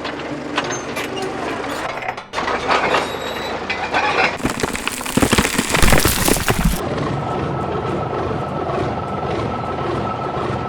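Heavy-vehicle engine sound effects with clattering, broken about halfway by a loud, noisy crash-like burst lasting a couple of seconds, after which a steady engine drone with a faint high whine takes over.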